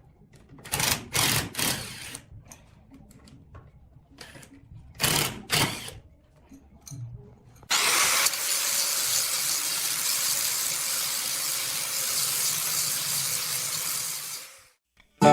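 A power tool is triggered in short bursts, three near the start and two more a few seconds later, then runs steadily for about seven seconds before stopping.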